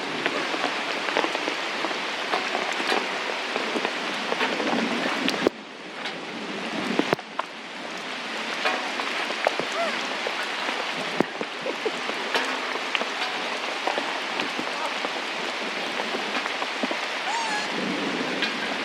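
Heavy rain falling steadily, with scattered sharper drop impacts. It drops away suddenly about five seconds in and builds back up over the next few seconds.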